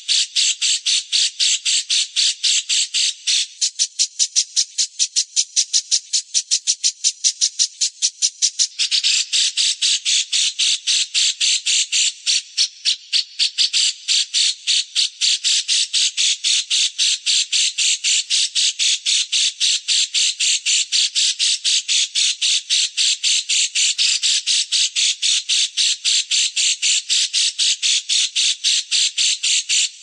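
A songbird calling in a fast, unbroken series of short, harsh chattering notes, about five a second, in the way of a bird-training 'master' call track. The notes turn thinner and higher from about 3 s to about 9 s in, then return to the fuller chatter.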